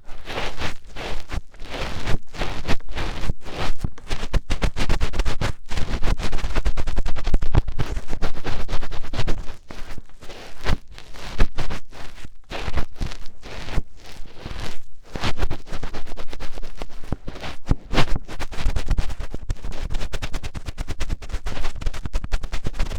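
A fingertip rubbing and digging deep inside the ear of a binaural ASMR microphone. It makes a dense, unbroken run of crackling scratches and scrapes.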